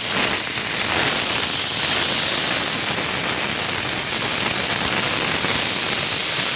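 Diesel spray gun hissing steadily as it mists diesel onto a car's engine bay.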